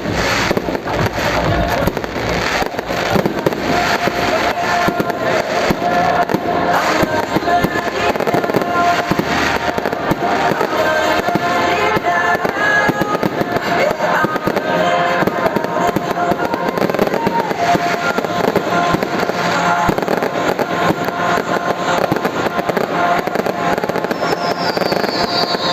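Fireworks going off in rapid succession, a dense run of bangs and crackling with music playing throughout. The bangs are thickest over the first ten seconds or so, and a short falling whistle sounds near the end.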